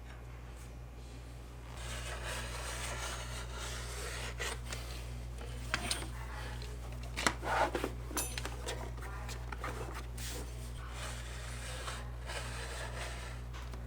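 A piece of leather being handled on a workbench: it rubs and scrapes as it is moved and smoothed, with a few sharp knocks about halfway through. A steady low hum runs under it from about two seconds in.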